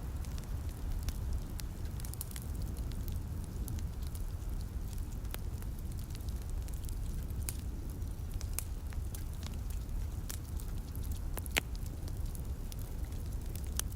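Fireplace fire crackling: irregular sharp pops and ticks over a steady low rumble, with one louder snap about eleven and a half seconds in.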